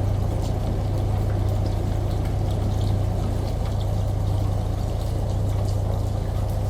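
Washing machine running with a steady low hum, mixed with the even rush of pouring water and faint scattered drip-like ticks.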